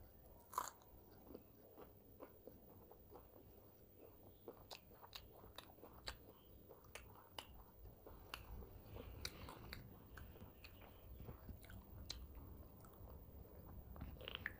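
Faint, close-miked eating sounds: a bite into a fried green chickpea pakora about half a second in, then chewing with scattered small crunches and mouth clicks.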